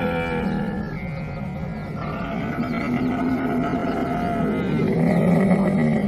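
Camel calling: long, rough, low vocalizations. They ease slightly about a second in and build again to their loudest near the end.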